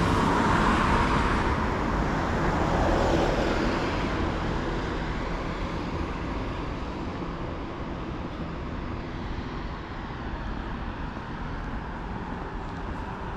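Road traffic: a vehicle passes loudly in the first few seconds, then fades into a steady traffic hum.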